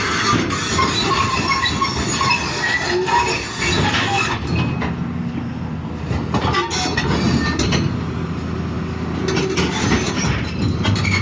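Hydraulic excavator working: its engine runs under a steady low rumble while short metallic squeals and clanks come again and again, the kind of squeal steel tracks and pins give off.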